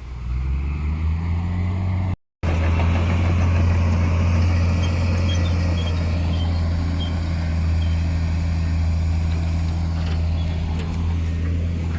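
Heavy diesel engine of earthmoving machinery running at a steady low drone, with a brief total dropout about two seconds in.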